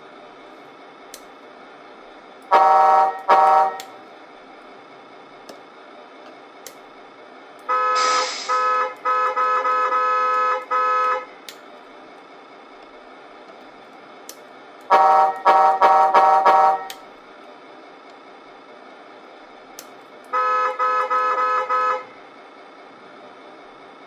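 Truck horn sounds played through the Tamiya Scania RC truck's MFC-03 sound unit, in four groups of short blasts. A faint steady hum runs between the groups.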